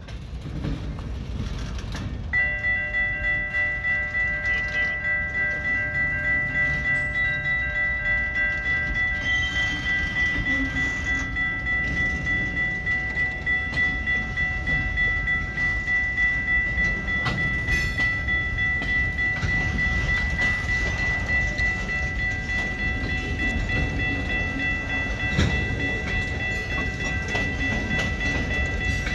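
Boxcars of a freight train rolling slowly past, a low rumble with steady wheel clatter. About two seconds in, a level-crossing warning bell starts ringing steadily and keeps on, its ring the loudest sound.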